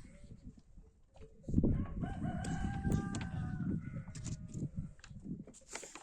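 A rooster crowing once: one drawn-out call of about two seconds, starting about two seconds in, over low rumbling noise.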